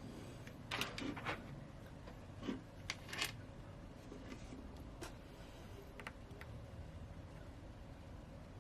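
Light handling noises of small tools and a phone on a work surface: a cluster of clicks and scrapes about a second in, another about three seconds in, then a few faint scattered ticks.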